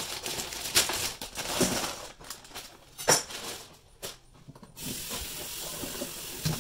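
Raw shrimp tipped and handled in a stainless steel colander in a sink, with irregular rustles and knocks. About five seconds in, tap water starts running steadily into the sink over them.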